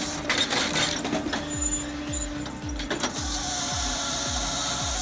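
Firewood cutting and splitting machine running, with a steady hum and a rapid repeating mechanical clatter, about three low thumps a second from about a second and a half in.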